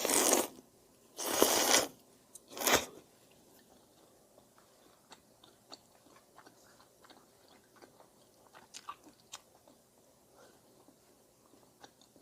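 A person eating udon noodles close to the microphone: three loud, noisy bursts in the first three seconds, then soft chewing with small wet clicks.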